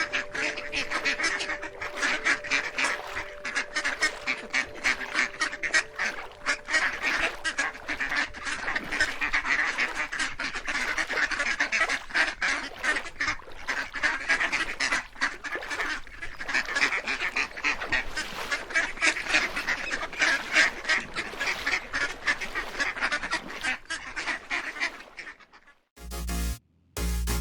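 A flock of domestic waterfowl calling together, many overlapping honks and quacks in a dense, continuous chorus. It cuts off abruptly near the end.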